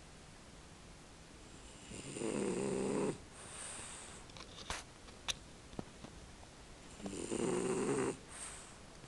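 A sleeping French bulldog snoring: two loud snores about five seconds apart, each about a second long and followed by a softer breath. A few faint clicks come between them.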